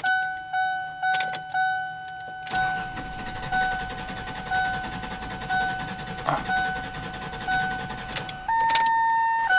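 2002 Ford Explorer's dash warning chime dinging about once a second while the engine is cranked from about two and a half seconds in without settling into a run. Near the end the chime changes to a higher, steady tone. This is typical of a fuel pressure problem, which the mechanic believes is the cause.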